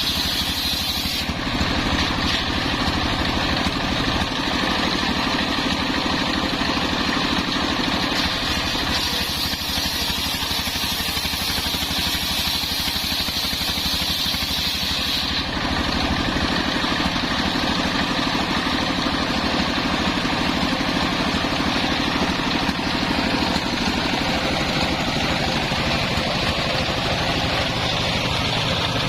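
Homemade circular sawmill running steadily, its engine and spinning blade at work on a coconut-palm log. The higher hiss changes about a second in and again about fifteen seconds in.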